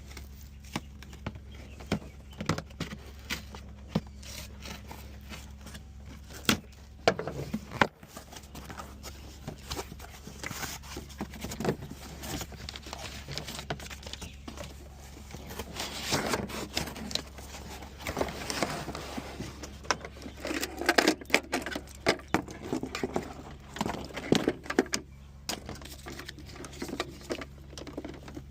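Scattered clicks, knocks and clinks of hand tools and metal hardware being handled, busier in the second half, over a steady low hum.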